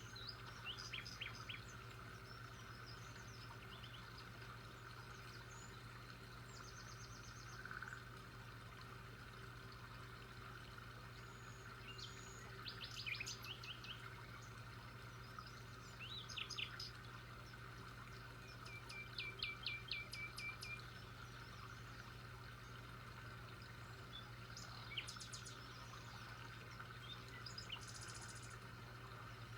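Birds chirping and calling in short, scattered phrases of quick high notes and trills, busiest about halfway through, over a faint steady background hum.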